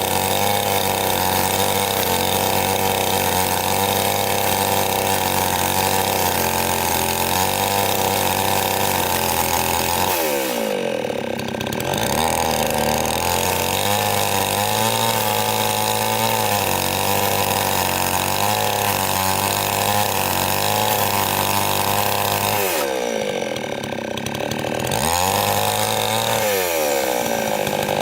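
Two-stroke chainsaw running hard, its engine note dropping away about ten seconds in and again near the end, then picking back up each time.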